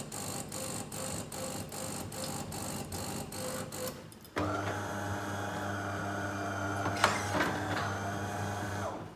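Delonghi Dinamica bean-to-cup coffee machine running after being switched on, most likely its start-up rinse. It makes a rhythmic mechanical pulsing of about three beats a second, then about four seconds in a steady pump hum starts and runs until it cuts off just before the end.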